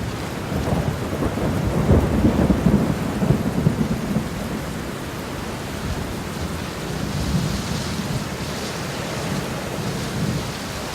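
Heavy rain with a roll of thunder, loudest about two to four seconds in, then easing to steady rain.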